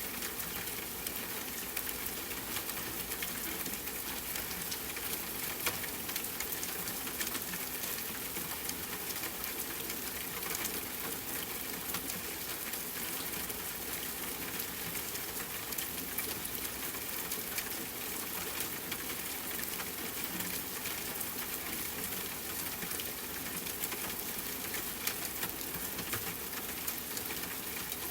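Steady rain falling in a forest, mixed with a campfire crackling: an even hiss dotted with many small, sharp pops.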